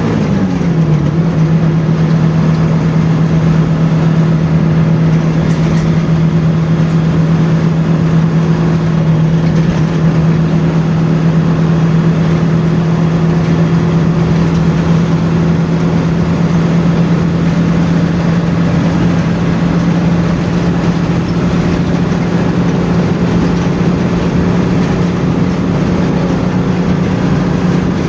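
Bus engine running at a steady cruise over constant tyre and road noise, heard from on board. The engine note drops in the first second as the revs fall, holds steady, then rises slightly near the end.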